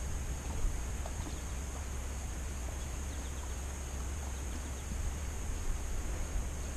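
Quiet outdoor background: a steady low rumble of wind on the microphone and a thin, steady high-pitched whine, with a few faint ticks.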